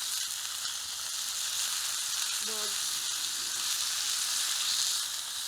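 Bacon sizzling steadily on the griddle ring of a wood-burning fire pit, its fat frying hard.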